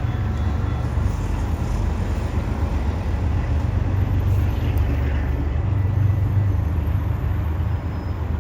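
Steady low rumble of a passenger train passing.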